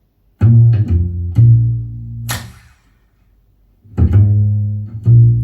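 Instrumental song intro: a short phrase of low, sustained plucked guitar or bass notes, closed by a bright crash-like hit. After about a second of silence the same phrase starts again.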